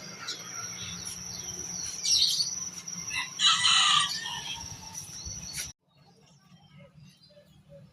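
Birds calling and chirping over a steady high-pitched trill, with two loud call bursts about two and three and a half seconds in; the sound drops abruptly near the end to faint scattered chirps.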